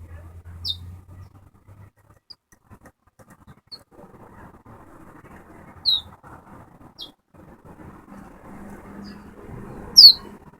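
Chestnut-bellied seed finch (towa-towa) giving short, high chip calls, each a quick falling note. About seven are spread through a few seconds, the loudest near the end.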